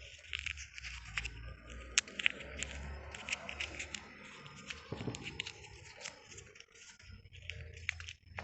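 Dry plant stalks and leaves crackling and rustling in quick, irregular snaps, as the dry mangalô (lablab bean) plant is handled or pushed through.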